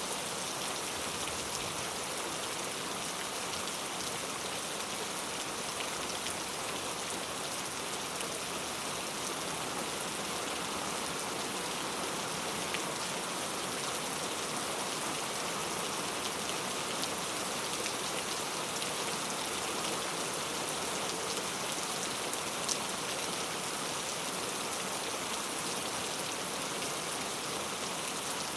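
Heavy rain falling steadily on hard surfaces, a dense even hiss with scattered sharper drop ticks.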